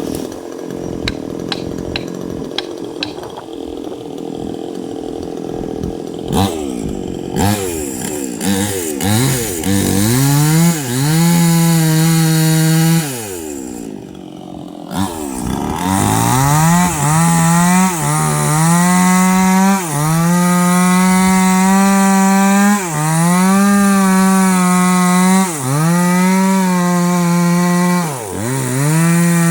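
Two-stroke chainsaw cutting into a tree. For the first few seconds there is only a rough noise with a few clicks. Then the engine revs up, holds at full throttle for a couple of seconds, drops and revs again, over and over.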